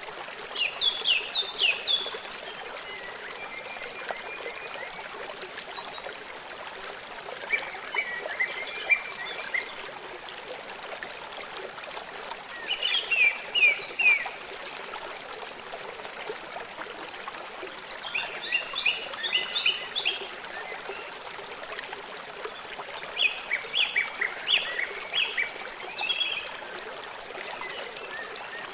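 A stream running steadily, with a songbird repeating short phrases of quick, high chirping notes every few seconds.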